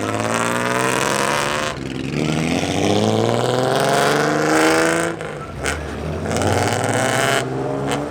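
Car engine with a loud exhaust revved hard three times, its pitch climbing each time before dropping away.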